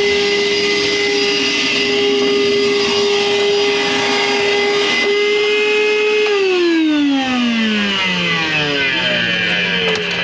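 Air-conditioning unit's motor running with a steady whine, then winding down about six seconds in, its pitch falling smoothly over a couple of seconds before settling into a lower steady hum as the unit shuts off.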